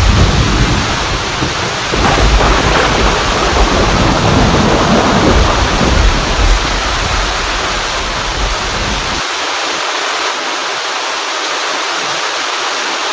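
Heavy rain falling steadily with thunder rumbling deep underneath; the rumble stops abruptly about nine seconds in, leaving only the rain.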